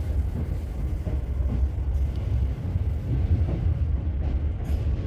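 Cabin noise of a South Western Railway Class 455 electric multiple unit on the move: a steady low rolling rumble, with a couple of light clicks near the end.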